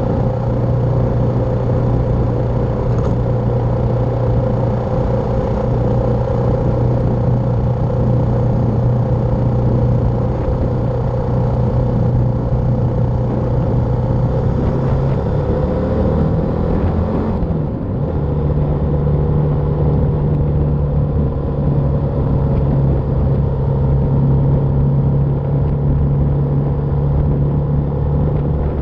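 BMW G310R's single-cylinder engine running steadily under way, with wind noise on the microphone. About two-thirds through, the engine note changes once and settles at a slightly higher steady pitch while the wind hiss eases.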